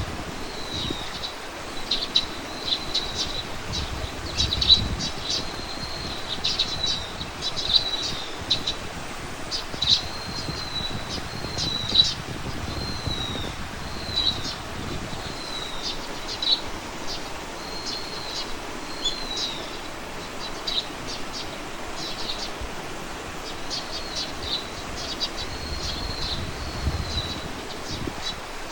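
Small birds chirping: short high calls and quick slurred notes repeating throughout, over a steady outdoor hiss with occasional low rumbles of wind.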